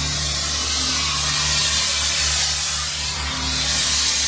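Steady hissing of a cutting torch used to burn the bolts off a truck frame, over a steady low hum.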